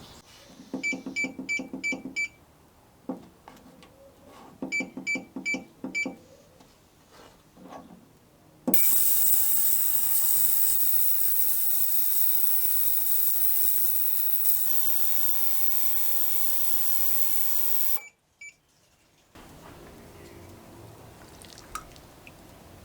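Ultrasonic parts cleaner: its control panel beeps in two quick runs of about five beeps, then the cleaner runs with a loud, steady, high hissing buzz for about nine seconds before cutting off sharply.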